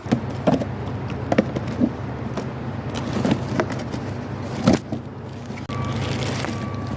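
A vehicle engine running steadily, with scattered metallic knocks and clinks from parts being handled, the loudest about two-thirds of the way in.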